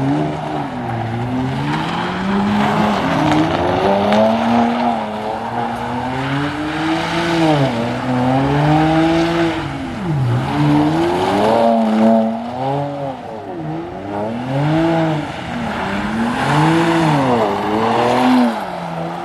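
A car engine revving up and down over and over, its pitch rising and falling every second or two, over a steady hiss.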